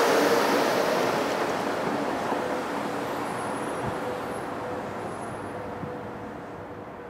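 Kawasaki M8 electric multiple-unit train moving away along the track, its rolling noise fading steadily, with a faint steady hum underneath.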